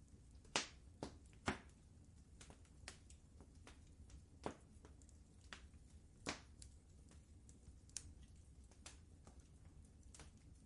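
Wood fire crackling: irregular sharp pops and snaps, a few louder ones in the first two seconds and another around six seconds in, over a low steady rumble.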